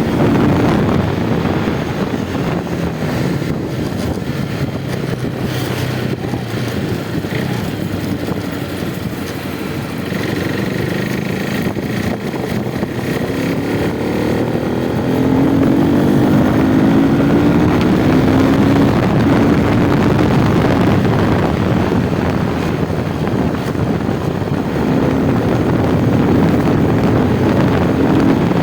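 Motorcycle engine running under way, its note rising about halfway through and then holding steady.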